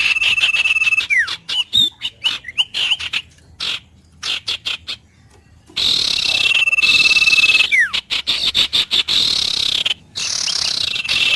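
Birds calling: a held high whistled note that ends in a quick falling slur, over a rapid pulsing trill. The pattern repeats about every four to five seconds, with a brief lull near the middle.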